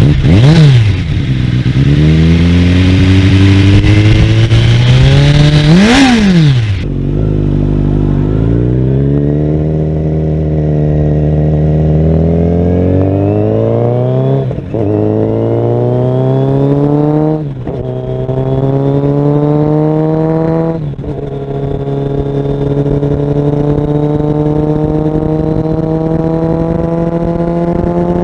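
Kawasaki Ninja 1000SX inline-four with an aftermarket LeoVince exhaust, accelerating hard through the gears. The engine note climbs steadily, then drops sharply at each of three upshifts before rising again.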